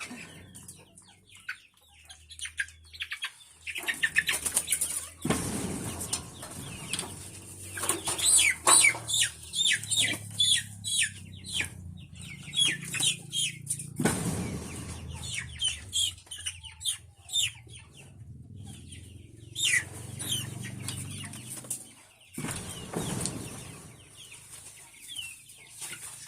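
Chickens clucking and calling, with several bursts of wing flapping.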